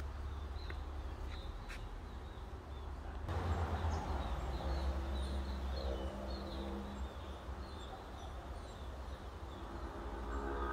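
Birds calling: a short high chirp repeated about twice a second, with some lower, drawn-out calls from about five seconds in and again near the end, over a steady low rumble.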